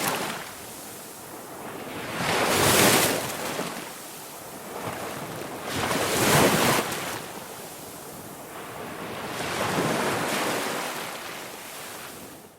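Ocean waves breaking and washing in, three slow swells of surf rising and falling about every three to four seconds.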